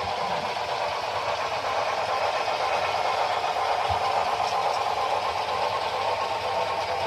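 Model train running on the layout, a steady mechanical whir that grows slightly louder, with a faint low thump about four seconds in.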